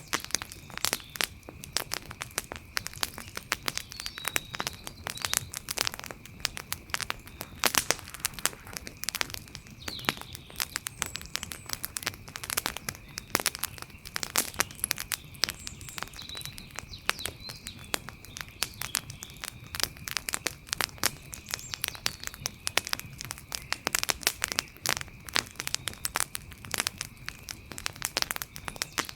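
Wood fire crackling, with dense, irregular pops and snaps throughout and a faint steady high tone beneath.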